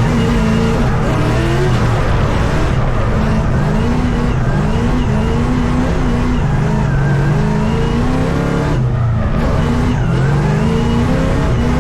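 GM LS V8 engine of a BMW E82 drift car driven hard on track, its pitch climbing and falling again and again as the throttle is worked, briefly dropping off about nine seconds in.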